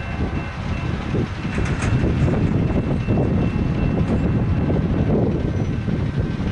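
Low, steady rumble of a distant diesel freight train approaching, mixed with wind buffeting the microphone.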